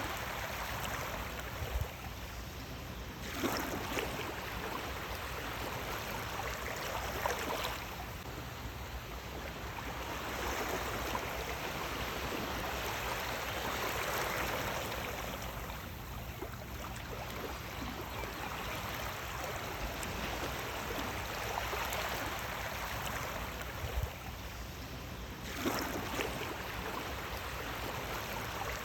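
Sea waves breaking and washing on a shore. The water noise swells and falls back every several seconds, with a sharper splash at some of the breaks.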